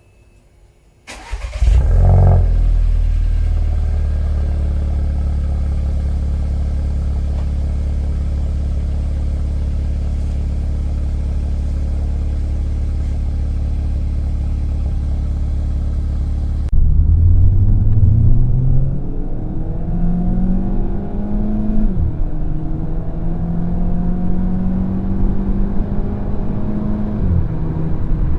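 Volkswagen Jetta exhaust, resonator removed and fitted with an aftermarket muffler. The engine starts about a second in with a short rev flare, then settles to a steady idle. Later, after an abrupt change, the car accelerates hard, its exhaust note rising and dropping back twice at gear changes.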